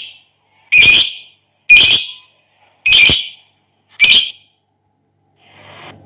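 Lovebird giving short, loud, harsh shrieks, four in a row about a second apart, then falling silent near the end.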